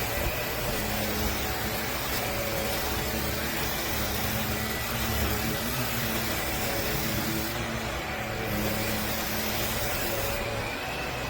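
Bissell PowerClean upright vacuum cleaner running steadily, with a constant hiss and a low hum and two brief dips in its high hiss.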